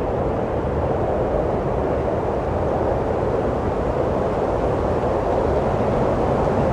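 Wind blowing steadily, a deep, even rushing noise with no distinct gusts or breaks.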